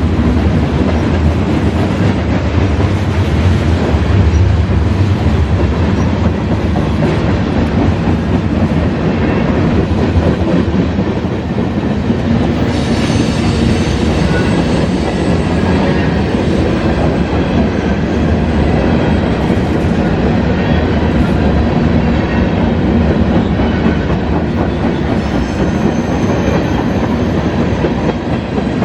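Freight train cars rolling past: a steady, loud rumble and clatter of steel wheels on the rails, with a thin high wheel squeal joining about halfway through and again near the end.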